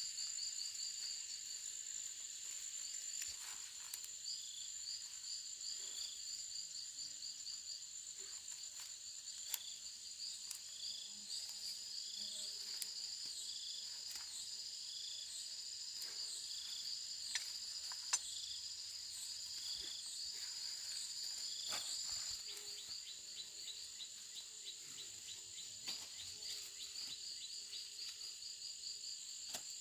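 Insects, crickets among them, chirping in a steady layered chorus: a constant high trill, rows of rapid pulsed chirps beneath it, and a shorter note repeating about once a second. A few sharp clicks stand out, the loudest about two-thirds of the way through.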